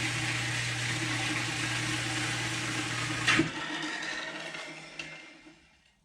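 An electric metalworking power tool running with a steady hum and hiss, working on steel tubing. About three and a half seconds in there is a sharp click, the hum stops, and the noise winds down and fades out over the next two seconds.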